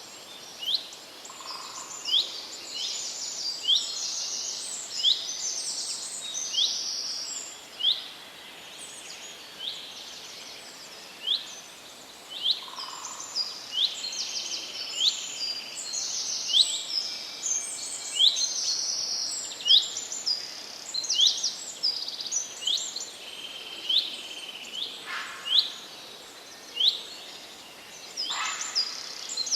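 Several songbirds singing in a forest: a dense run of short, sharp chirps and trills, repeating about once a second, over a faint steady hiss.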